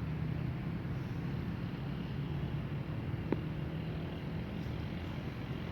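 Steady low outdoor rumble, with one short sharp click a little over three seconds in.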